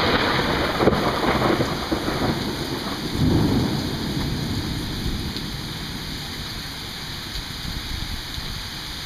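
Thunder rumbling after a close crack, swelling again about a second and three seconds in, then slowly fading, over steady rain.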